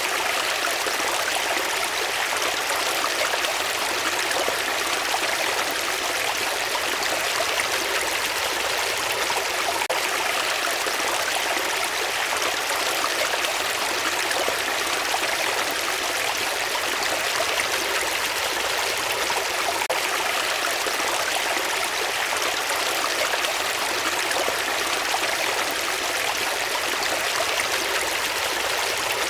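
Running water flowing steadily, an even, unbroken rush with no single splashes standing out.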